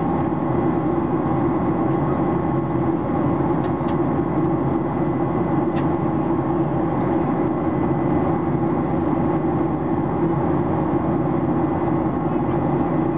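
Steady in-flight cabin drone of a Boeing 737-800: the hum of its CFM56-7B engines and rushing airflow, with a few steady tones running through it and a faint click about six seconds in.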